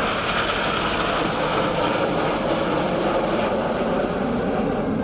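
BAE Hawk T1 jets of the Red Arrows flying past in formation: a steady, loud rushing jet noise from their Adour turbofans.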